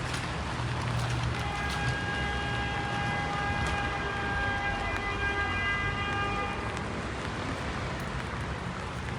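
Rain and passing traffic on a wet city street. A vehicle's engine hums low. From about a second and a half in, a steady high-pitched whine with overtones sounds for about five seconds, then stops.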